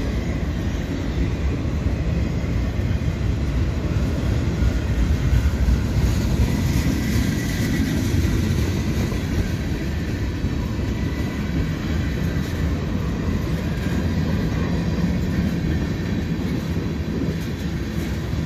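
Freight train's autorack and tank cars rolling past close by: a steady, loud rumble of steel wheels on the rails.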